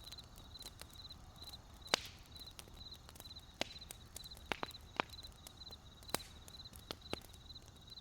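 Wood fire crackling, with irregular sharp pops, the loudest about two seconds in. Crickets chirp steadily throughout, each chirp a quick high trill of a few pulses, repeating about every half-second.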